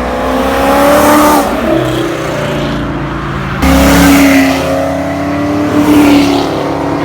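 Mustang engines revving hard as cars accelerate away in pull-outs, the pitch climbing and dropping at gear changes. The sound changes abruptly about halfway through as another car takes over.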